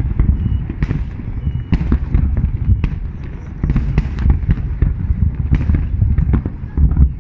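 Many fireworks bursting at once, a constant low rumble of booms with frequent sharp cracks, and two brief high whistles about half a second and a second and a half in.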